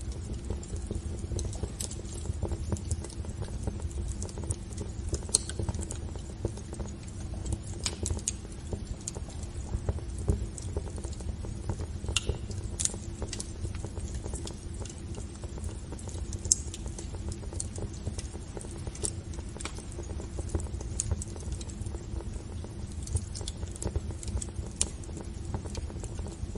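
Wood fire burning in a fireplace: a steady low rumble with constant small crackles and occasional sharper pops.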